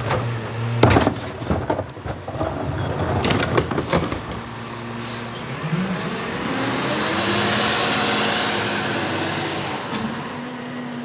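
Garbage truck knocking and clanking for the first couple of seconds, then its engine rises in pitch as it pulls away, growing louder and easing off near the end.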